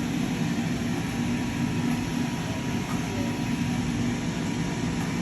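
A steady low rumble, even throughout, that cuts off suddenly at the end.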